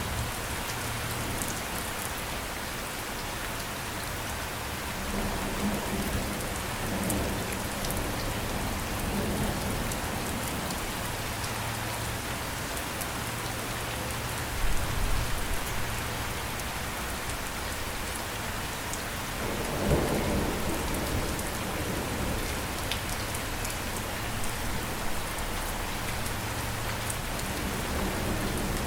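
Steady heavy rain falling, with low rumbles swelling up a few times, the loudest near the middle and about two-thirds of the way through.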